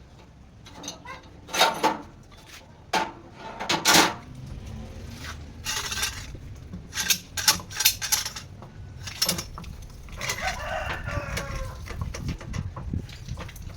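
A series of sharp metal knocks and clanks, unevenly spaced, followed by a rooster crowing for about two seconds, starting about ten seconds in.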